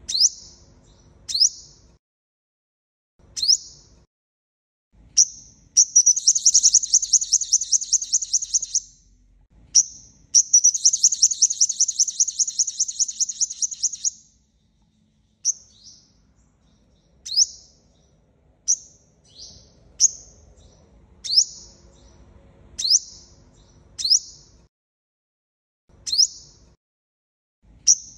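Sunbird calling: sharp, high chips that sweep down, repeated about every second and a half, with two long rapid trills of three to four seconds each around the middle.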